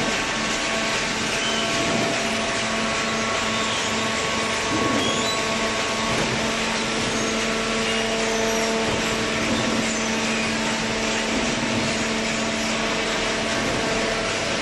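Commercial cardboard baler's motor and hydraulic pump running with a steady mechanical hum.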